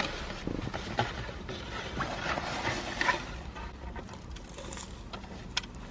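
Flaky, crispy matcha croissant crackling and crunching as it is torn and bitten, a run of irregular small crackles, with a steady low hum underneath.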